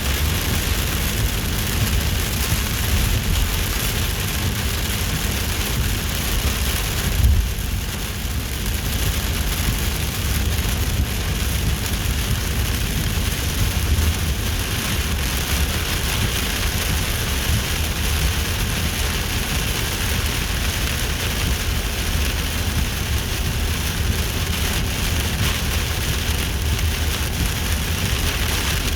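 Steady rain falling, an even hiss, with a constant low rumble underneath and a brief louder moment about seven seconds in.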